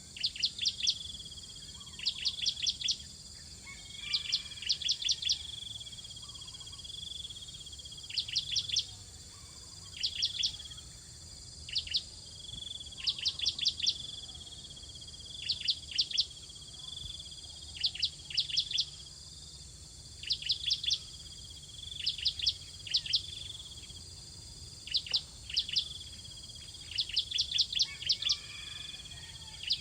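Bar-winged prinia (ciblek) calling at the nest: short bursts of three to six sharp, rapid chirps, repeated about every two seconds, over a steady high insect drone.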